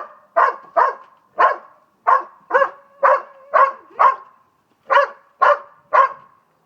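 A dog barking repeatedly, about two short, sharp barks a second, with a brief pause a little past the middle.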